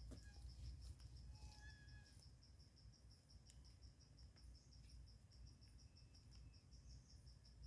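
Faint, steady chirping of a cricket, an even pulsing high note at about six pulses a second, with a few faint bird whistles and a click in the first two seconds.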